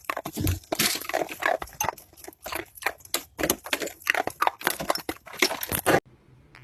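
An animal making a rapid, irregular run of short noisy sounds that stops abruptly about six seconds in.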